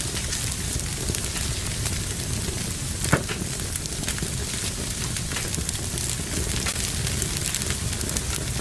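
Fire burning in a fireplace: a steady hiss with many small crackles, and one louder pop about three seconds in.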